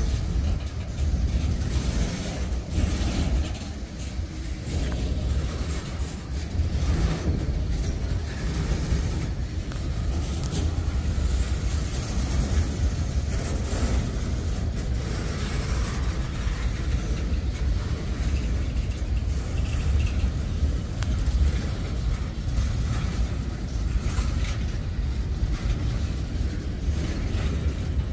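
Freight train cars rolling past, a mix of boxcars and tank cars: a low, steady rumble of steel wheels on the rails, with a few sharp clicks now and then.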